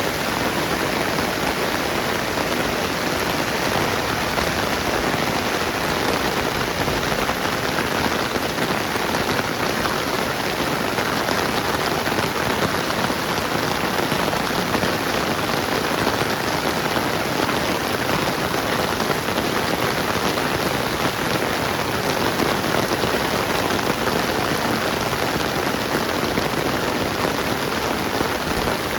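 Steady rain falling on the ground and surfaces, an even, unbroken hiss.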